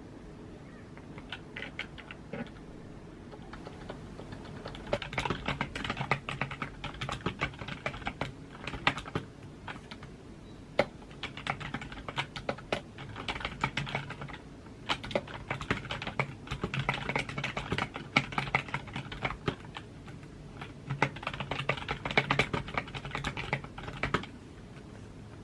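Typing on a computer keyboard: quick runs of key clicks with short pauses between them, starting sparse and stopping shortly before the end.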